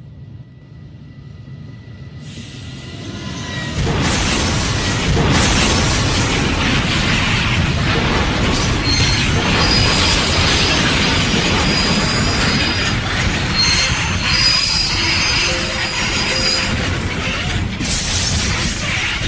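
Train running on rails, rumbling with squealing wheels. It grows louder over the first four seconds and then runs on steadily.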